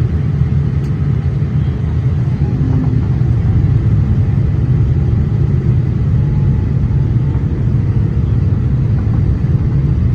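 Steady low rumble of engine and airflow noise heard inside the passenger cabin of a Boeing 787-8 airliner in flight.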